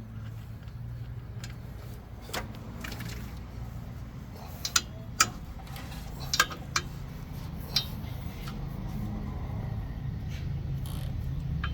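Short sharp metallic clinks and knocks of hand tools on truck parts, about eight scattered through, over a steady low hum.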